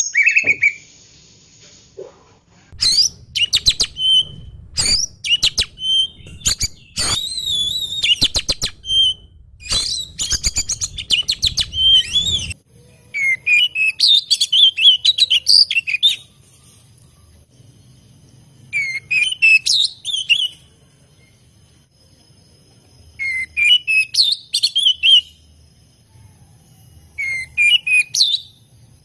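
An Oriental magpie-robin (kacer) singing loud, varied whistled phrases. First comes a dense run of song lasting about ten seconds, then shorter phrases a few seconds apart.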